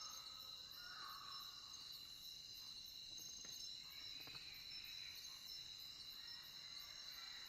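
Faint night chorus of crickets, a steady high-pitched chirring that holds without a break, with a soft lower call about a second in.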